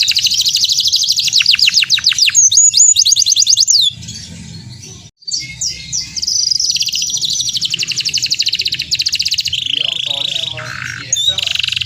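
Domestic canary singing: fast rolling trills of rapidly repeated notes and quick downward-sweeping whistles. The song drops away briefly about four seconds in, then resumes with more rapid trills.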